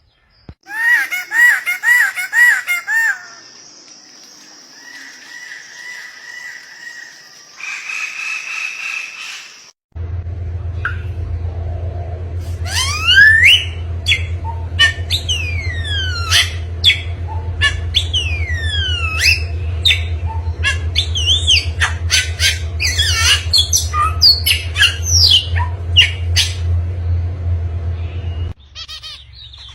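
A run of different bird calls: first a quick series of about five repeated call notes, then, from about ten seconds in, many fast whistled notes sweeping up and down over a steady low hum.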